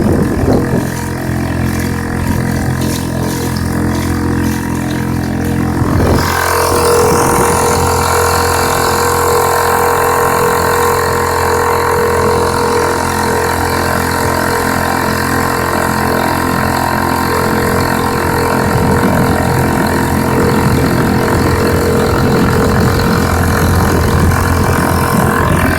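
Honda 2 hp four-stroke outboard motor running steadily at a constant speed, pushing a canoe along. About six seconds in the sound gets louder and brighter, then holds steady.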